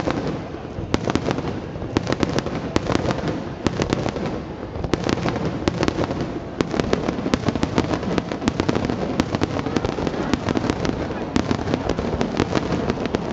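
Nagaoka aerial fireworks bursting in a dense barrage: many sharp bangs and crackles in quick succession, without a pause.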